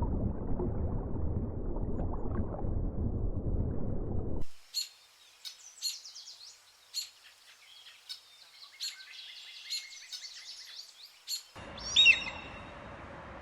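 Low rumbling noise that cuts off after about four and a half seconds, followed by birds chirping and calling in short, sharp, high notes. Near the end a steadier hiss comes in with one louder call.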